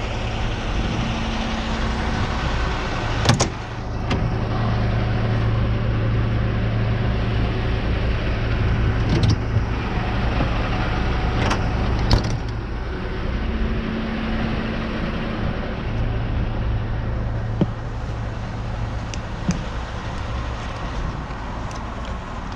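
A truck engine running at a steady idle, its hum shifting slightly in pitch a couple of times, with a few sharp metallic clicks or knocks over it.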